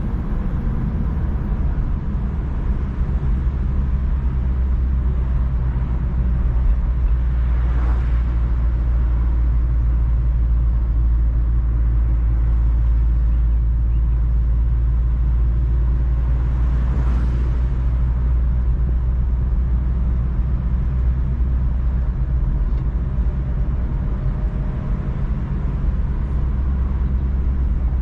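Mazda MX-5 NC's 1.8-litre four-cylinder petrol engine running at a steady cruise, a constant low drone under tyre and wind noise, heard from inside the open-top cabin. A brief swell of noise comes twice, about a third and two thirds of the way through.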